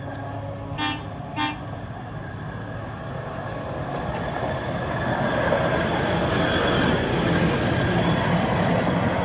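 Two short toots of a hi-rail truck's horn, about half a second apart, then the truck running along the rails, growing louder as it approaches.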